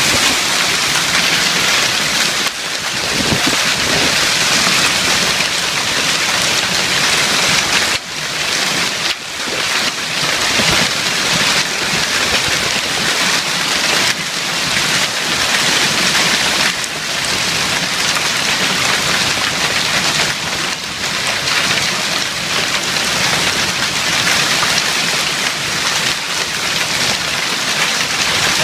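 Heavy hailstorm: hail and rain pelting surfaces in a dense, loud, steady patter of countless small impacts.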